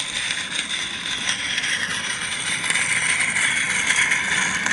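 Small live-steam garden-railway locomotive running, a steady hiss of steam that grows slowly louder.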